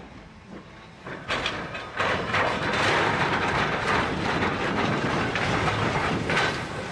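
A train passing close by, its wheels clattering over the rail joints. It builds up about a second in and is loud and steady from about two seconds on.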